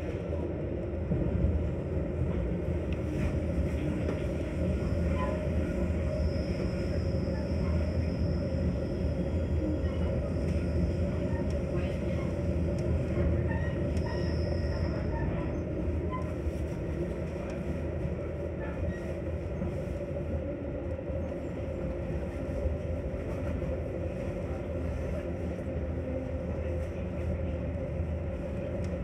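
Metra commuter train running along the tracks, heard from inside a passenger car: a steady low rumble of wheels on rail with small clicks. A faint high whine is heard from about six to fifteen seconds in.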